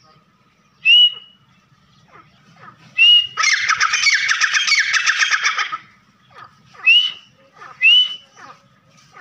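Francolin (teetar) calling: single short whistled notes that rise and level off, about a second in and again about three seconds in, then a loud, rapid chattering call lasting about two and a half seconds, then two more whistled notes near the end.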